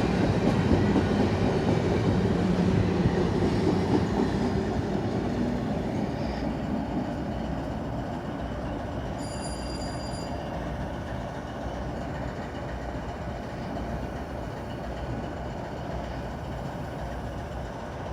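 Empty intermodal railcars (bare tables) of a BNSF freight rolling past, wheels rumbling on the rails, fading steadily as the train moves away. A brief high thin whine sounds about nine seconds in.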